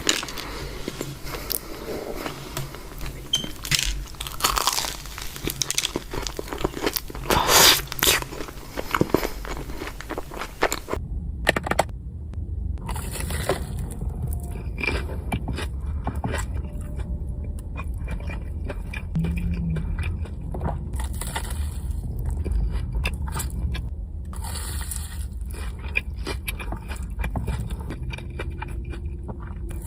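Close-up crunching and chewing of a batter-fried Korean corn dog, with sharp crackling bites. About eleven seconds in the sound changes abruptly: a steady low rumble then sits under quieter chewing and scraping.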